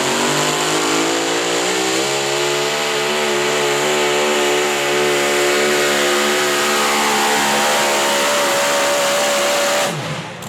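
Pulling truck or tractor engine running at full throttle under heavy load while dragging the weight sled. Its pitch climbs at first, then holds with a slight waver, before the engine is shut off suddenly near the end as the run finishes.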